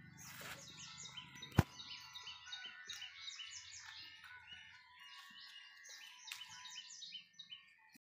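Small birds chirping in quick repeated high calls, with one sharp click about one and a half seconds in.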